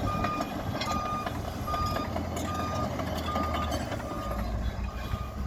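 A Komatsu bulldozer's reverse alarm beeping steadily, about one beep every 0.8 seconds and seven in all, over the low running of its diesel engine as it backs up.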